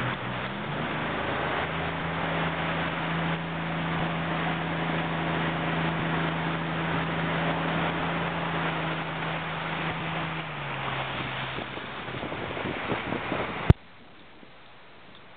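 A motorboat engine runs steadily under a rush of wind and water, its note dropping about ten seconds in as it slows. The sound cuts off abruptly with a click near the end.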